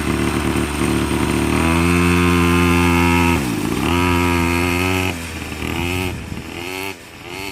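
49cc mini quad's small two-stroke engine, brand new and high-performance, running under throttle. It revs up about a second and a half in, dips briefly around the middle, revs high again, then falls off and gets quieter near the end.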